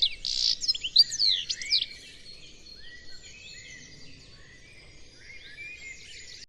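Small songbirds chirping: quick, loud chirps in the first two seconds, then a fainter chorus of overlapping calls and whistles.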